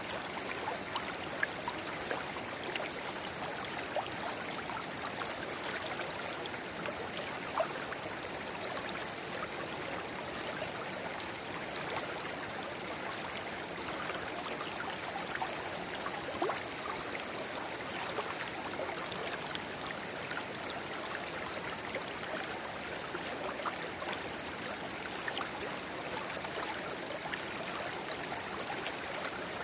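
Shallow river babbling steadily where a small spring-fed stream trickles into it. Scattered gurgles and small splashes rise over a continuous rush of water.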